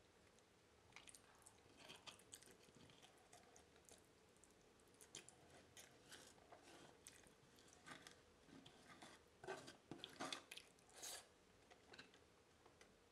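Close-miked chewing of a mouthful of brain cooked in a waffle iron: soft, irregular mouth clicks and smacks, busiest about ten seconds in.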